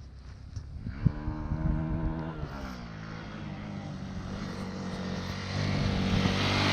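Triumph Tiger 900 Rally Pro's triple-cylinder engine with stock exhaust, revving up about a second in with a sharp click, easing off briefly, then pulling steadily higher and louder as the bike accelerates.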